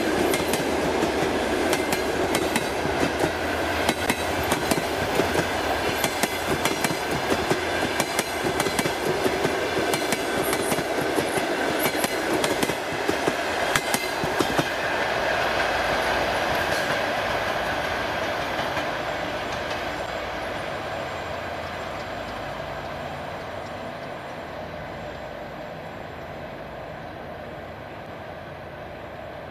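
Passenger coaches of a train rolling past, wheels clicking over rail joints in quick runs. After about fifteen seconds the clicking stops and the rolling sound fades away steadily as the train moves off.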